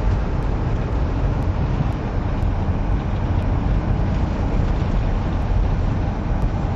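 Four-wheel-drive vehicle driving on a snow-covered road, heard from inside the cab: a steady low rumble of engine and tyres.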